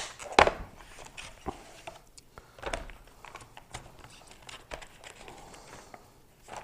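Packaging handled while a knife-sharpening kit is unboxed: crinkling and rustling, with a loud sharp click about half a second in and scattered lighter clicks and knocks.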